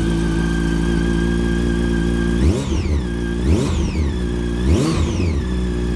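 Yamaha FZ8N's inline-four engine idling through an Akrapovic exhaust can, blipped three times about a second apart, each rev rising quickly and falling back to a steady idle.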